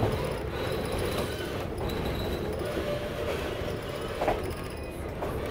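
Wilmington & Western heritage passenger train running, heard from aboard the car: a steady rumble of wheels on rail, with one sharp knock about four seconds in.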